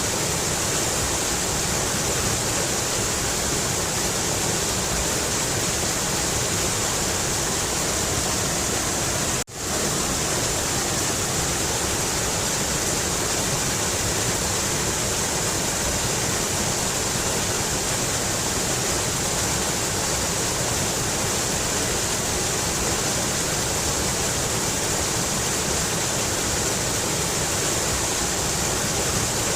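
Mountain river rushing steadily over rocks, a dense even hiss of running water. The sound drops out for a split second about nine seconds in, like a splice in the recording.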